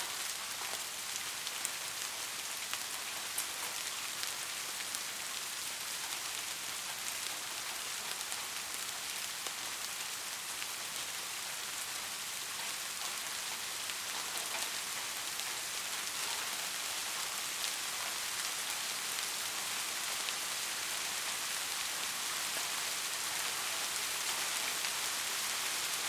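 Steady heavy rain falling, a dense even hiss with scattered sharp drop ticks; no thunder.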